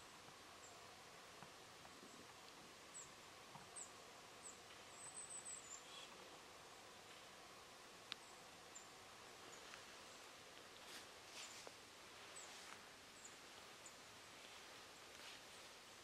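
Near silence with faint, very high, short chirps from a small bird now and then, including a quick run of them about five seconds in, and a single sharp click about eight seconds in.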